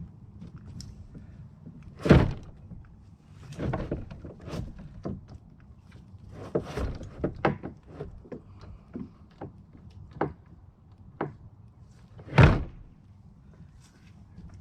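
Hollow knocks and thunks of a paddle and gear against a plastic kayak hull, two loud ones about two seconds in and near the end with lighter knocks between, over a steady low rumble.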